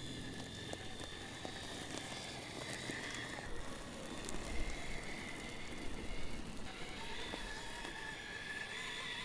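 Element RC Enduro KnightRunner 1/10-scale RC trail truck crawling over rocks: a faint high electric-motor whine that wavers with throttle, with scattered light crackles and clicks from the tyres and chassis on the rock.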